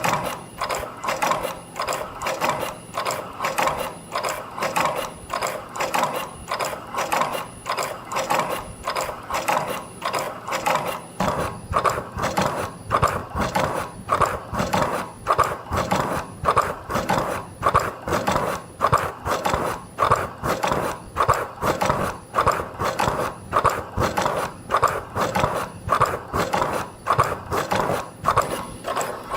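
CNC spring-forming machine running in production, coiling and forming torsion springs from 0.2 mm wire. It makes a steady mechanical clatter that repeats in a quick, even cycle of strokes and grows a little louder about eleven seconds in.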